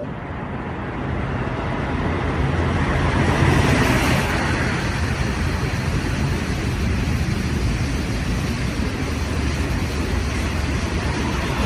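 Train running along the track through a railway station: a rushing rumble of wheels and air that builds to its loudest about four seconds in, then holds steady.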